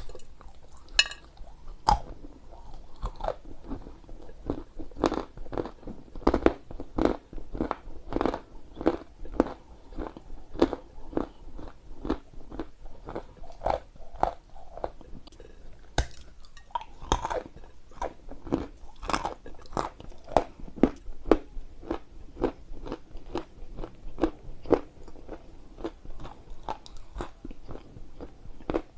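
Close-miked chewing of dry clay: a steady run of crunching bites, about two or three crunches a second, with a few louder ones.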